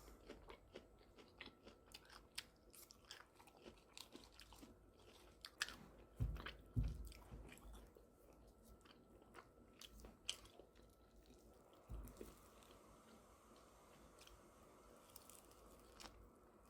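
Faint chewing and crunching of food, with many small clicks and a few soft low thumps partway through.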